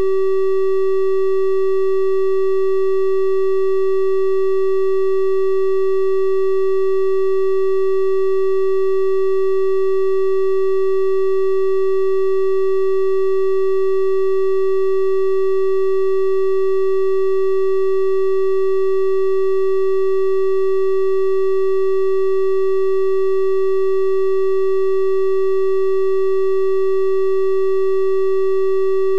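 Steady electronic 384 Hz triangle-wave tone, one unchanging pitch with faint higher overtones.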